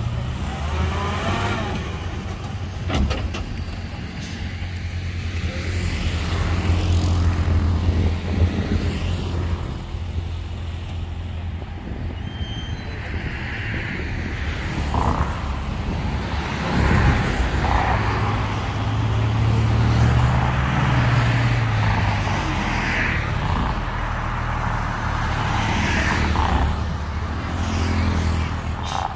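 Heavy diesel engine of a construction vehicle running steadily at a low pitch, rising and falling once about two-thirds of the way through as it revs.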